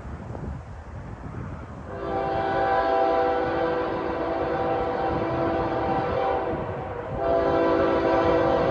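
Train horn sounding a chord of several steady tones in two long blasts. The first starts about two seconds in and lasts about five seconds; after a brief break the second begins near the end. Before the horn there is only a low rumble.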